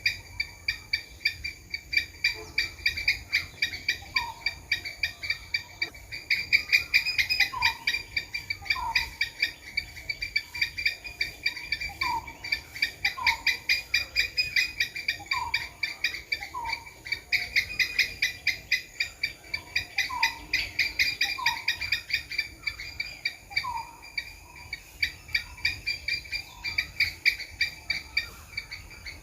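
Squirrel chattering: a fast, steady run of high-pitched clicking pulses that goes on without a break, with soft short falling calls about once a second beneath it.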